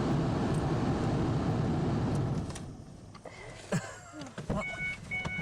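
A vehicle engine running loud and steady, dropping away about two and a half seconds in. Near the end comes a repeating high beeping tone.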